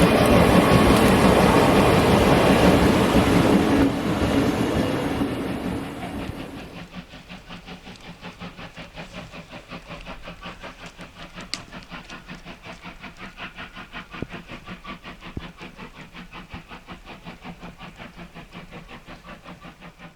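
D51 steam locomotive train passing on the track, loud with steam hiss for the first six seconds. The sound then drops sharply, leaving a quick, even clickety-clack of the carriages' wheels over the rail joints.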